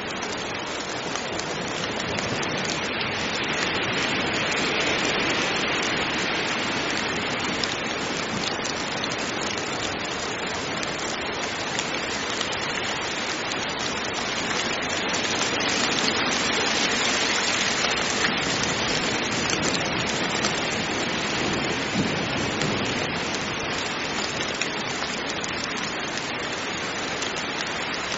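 Heavy rain falling steadily, a dense even hiss that swells and eases a little in slow waves.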